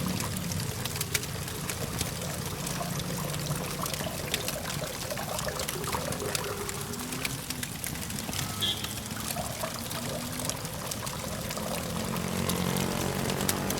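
Campfire crackling, with many small sharp pops over a soft hiss, over a low steady hum of distant traffic that swells near the end.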